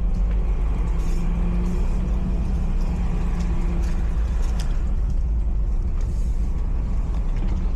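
Steady low rumble of a Nissan Xterra heard from inside its cabin, with a faint steady hum above it.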